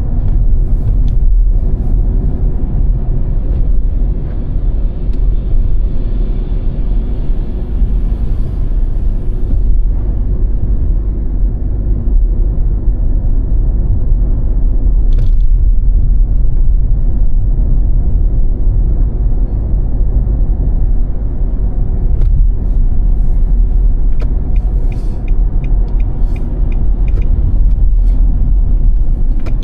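Car driving on a snow-covered road: a steady low rumble of tyre and engine noise. A single sharp click comes about halfway through, and a run of quick, evenly spaced light ticks starts near the end.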